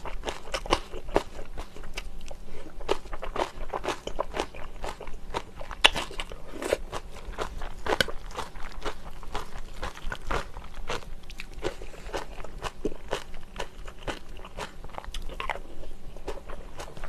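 Close-miked chewing and wet mouth sounds of someone eating soy-braised chicken with thick, chewy Chinese glass noodles: a dense run of small smacks and clicks, with a few louder bites.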